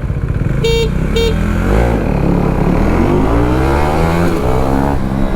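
KTM Duke 390 single-cylinder engine accelerating hard from a standing start, revs climbing, dropping at a gear change and climbing again. Two short horn toots come about a second in, over wind and traffic noise.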